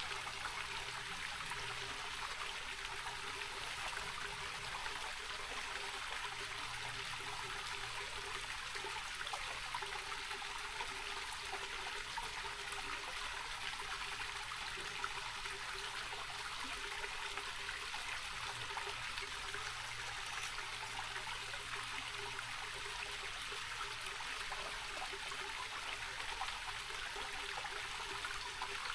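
Small, low-running rocky mountain creek trickling and rushing steadily over rocks.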